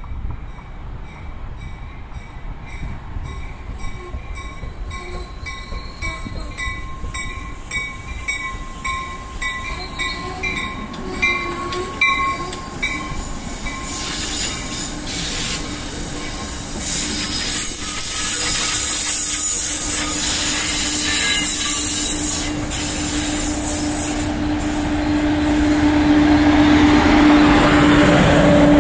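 NJ Transit train approaching, growing steadily louder. For the first half a bell rings about twice a second. From about two-thirds in a steady low tone, like a horn or traction drone, swells up with the train's rolling rush.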